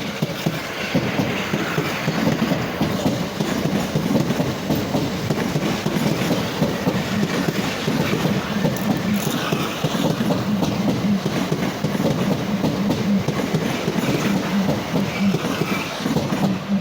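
Southeastern Class 375 Electrostar electric multiple unit, two units coupled, running past at close range: a steady, loud noise of wheels on rail, dense with fine clicks and rattles.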